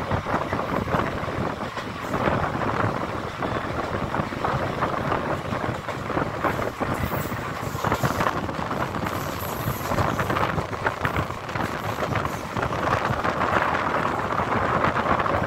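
Passenger train running along the track, heard from an open coach doorway: a steady noise of wheels on rails with many small clicks and knocks throughout, and wind buffeting the microphone.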